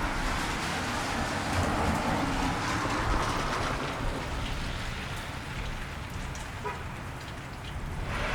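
Steady rain falling on a wet street, with the tyre hiss of a car passing on the wet road swelling and fading in the first few seconds, and another swelling near the end.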